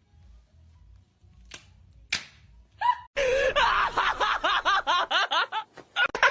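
Rapid laughing, a string of short voiced 'ha's about four to five a second, starting about three seconds in after two faint clicks.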